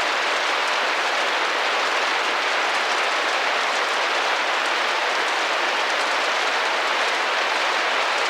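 Steady rain falling on a glass window, an even patter of many drops with faint fine taps, unchanging throughout.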